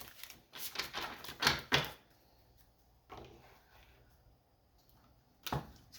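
Cards being handled on a table: several light taps and knocks in the first two seconds, a faint shuffle about three seconds in, and one more knock near the end.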